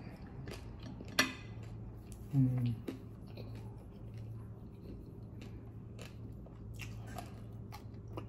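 Close-up chewing with small wet mouth clicks. A fork clinks on a plate about a second in, and a short hummed murmur of voice follows at about two and a half seconds.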